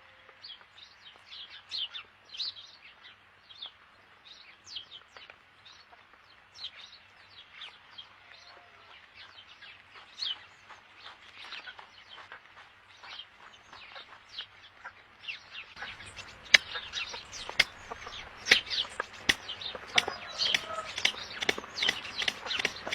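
Many small birds chirping: a steady stream of short, sharp chirps that grows louder and busier about two-thirds of the way in, with a low rumble of background noise joining it.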